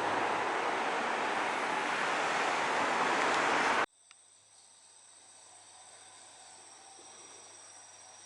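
A loud, even rushing noise builds for nearly four seconds and cuts off abruptly. After it come faint, steady, high-pitched insect calls.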